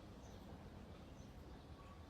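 Near silence: a pause between phrases of a common nightingale's song, with only faint background hiss.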